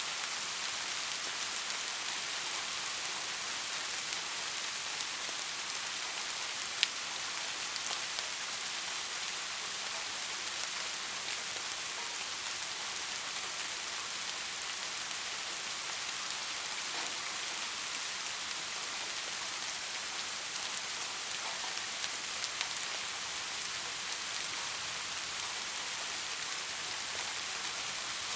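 Steady rainfall: an even hiss of rain with scattered individual drops ticking on a surface, one sharper drop tick about seven seconds in.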